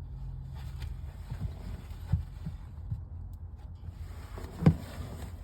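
Soft knocks and bumps inside a car cabin, with one sharper, louder knock about four and a half seconds in, over a steady low hum from the car.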